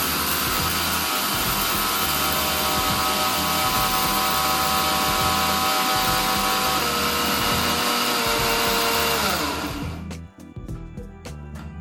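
Agaro Blitz 750 W mixer grinder motor running at full speed with a loud, steady whine. The whine steps down in pitch about seven seconds in, then the motor is switched off and winds down with a falling whine, stopping about ten seconds in.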